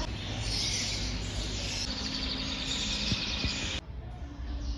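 Many small birds chirping together in a dense, high-pitched chatter that cuts off abruptly about four seconds in.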